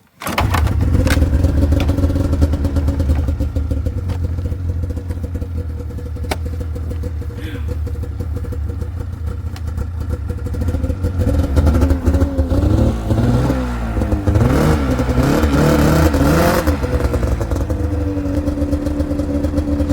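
Snowmobile engine catching and starting, then idling steadily. About two-thirds of the way through it is revved several times, the pitch rising and falling, before it settles back to idle.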